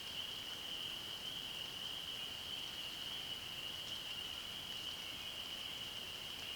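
A chorus of frogs calling together as one steady, unbroken high-pitched trill held at a single pitch.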